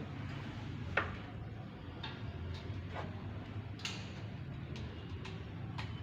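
A few sharp clicks or taps, irregularly spaced about a second apart, over a low steady hum.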